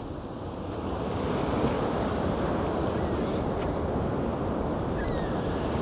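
Ocean surf washing onto the beach, a steady rushing that grows louder about a second in, with wind buffeting the microphone.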